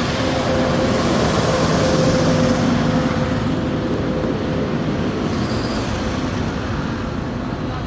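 Tractor engine passing close by: a steady drone that swells to its loudest about two seconds in, then slowly fades, over a continuous rumble of more engines.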